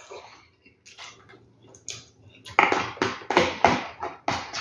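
Close-up mukbang chewing of a mouthful of hard-boiled egg. Quiet at first, then from about halfway through a quick run of loud, wet chewing and lip-smacking sounds.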